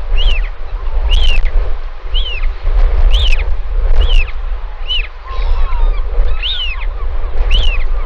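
A bird calling repeatedly, short sharp notes that rise and fall, about one a second, over a heavy low rumble of strong wind on the microphone.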